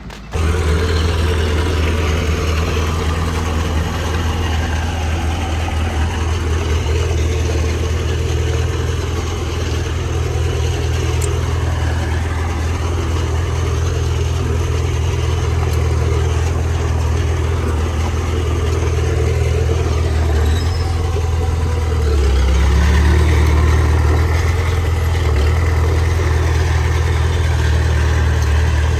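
Heavy diesel engine of earth-moving machinery running steadily; about 22 seconds in its pitch drops and it grows a little louder.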